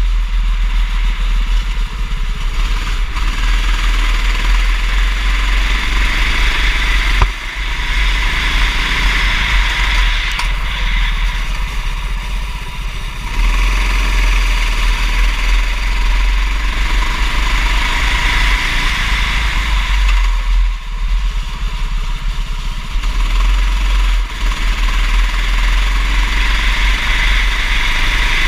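Racing kart engine revving up and falling off in turn, under a heavy low rumble and a steady hiss. The engine dips briefly three times.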